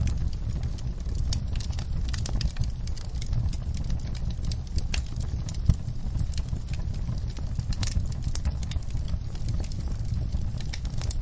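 Wood fire crackling in a fireplace: irregular sharp crackles and small pops over a steady low rumble, with one louder pop about halfway through.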